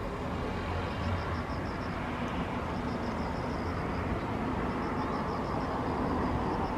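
Kawasaki C-2 transport's two turbofan jet engines running with a steady roar that grows slowly louder.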